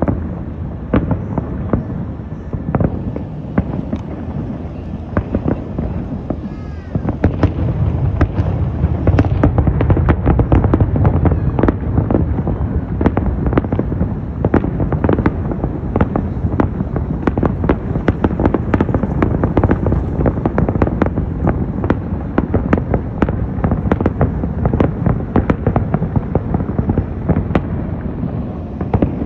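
Aerial fireworks bursting in quick succession, many sharp bangs over a continuous low rumble, growing denser and heavier about a third of the way in. A few faint whistles rise among the bangs.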